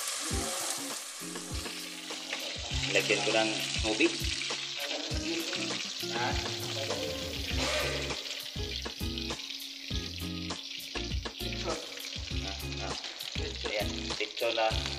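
Chicken pieces sizzling in hot oil in a pan, a steady frying hiss with scattered knocks and clicks.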